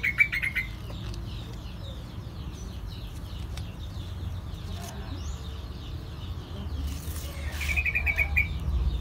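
A small bird's quick trill of rapid high notes, once at the start and again about eight seconds in, with faint chirping between. A steady low rumble runs underneath.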